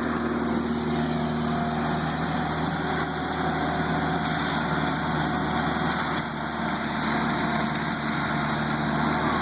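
ASV skid steer with a hydraulic mulcher head, its engine running steadily at an even pitch.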